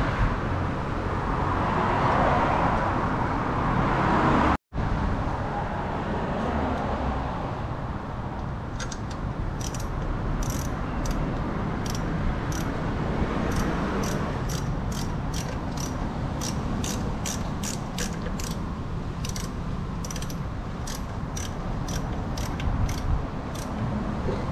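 A steady rushing noise that cuts out about five seconds in, then a hand ratchet wrench worked in even strokes, clicking about twice a second for most of the rest.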